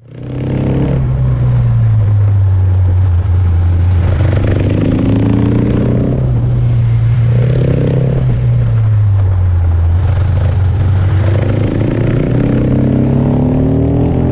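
Motorcycle engine running loud, its revs falling and rising several times.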